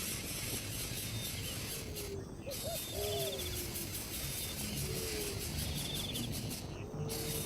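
Low hooting bird calls, a short group of curved notes repeated about every two and a half seconds, over faint high insect-like trills.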